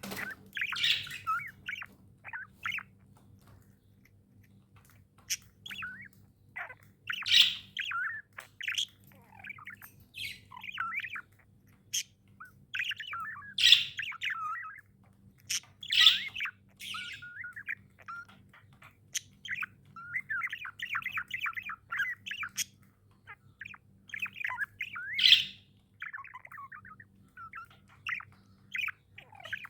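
Budgerigars chirping and warbling in quick, irregular bursts, with a few louder harsh squawks among them. A faint steady low hum runs underneath.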